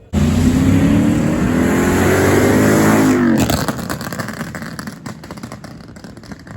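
Car engine at high revs under hard acceleration, its pitch climbing steadily for about three seconds. It then lets off, and rapid exhaust crackling fades away.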